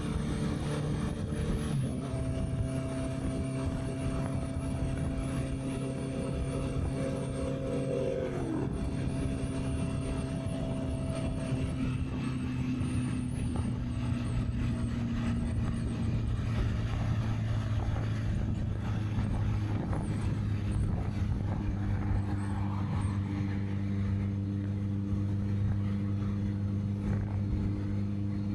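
Honda CB650R's inline-four engine running steadily while riding. Its note shifts about two seconds in, drops in pitch around eight seconds in, then holds a steady drone.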